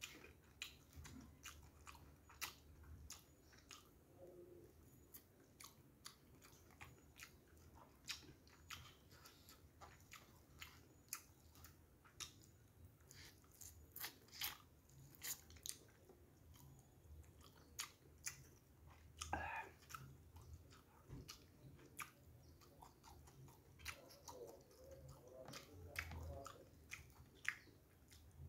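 A person chewing and biting a mouthful of rice and fried fish up close, with frequent short, sharp, irregular mouth clicks.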